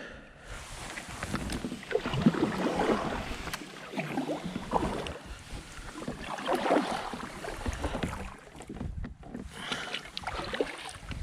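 Water sloshing and small knocks on a fishing kayak, in uneven swells rather than a steady rhythm.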